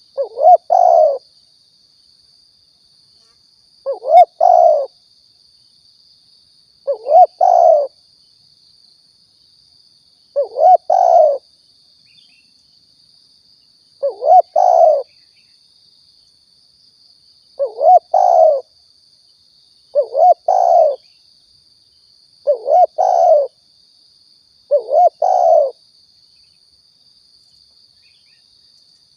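Spotted dove (tekukur) cooing, played as a lure call. There are nine calls, each a quick, roughly three-part coo about a second long, repeated every three seconds or so. A faint steady high hiss runs underneath.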